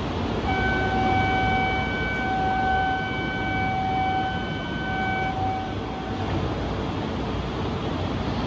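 Shinkansen platform noise around an E4 series Max train, with a steady pitched tone starting about half a second in and lasting about five seconds.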